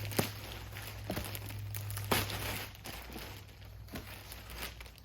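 Plastic packaging crinkling in irregular bursts as a packaged pillow is handled and squeezed.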